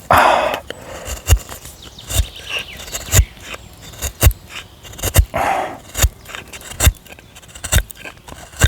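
Half-round wood gouge (carving chisel) being driven through alder by hand, giving a sharp crack with each stroke, about once a second. Two short, rough, hoarse bursts come at the start and about halfway through.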